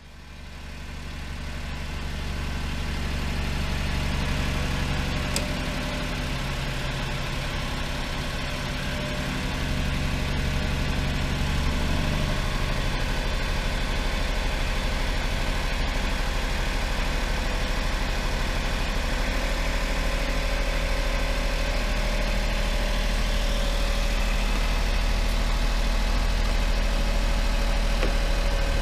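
Honda Acty van's engine idling steadily, fading in over the first couple of seconds; about twelve seconds in, the idle note shifts slightly and then holds steady again.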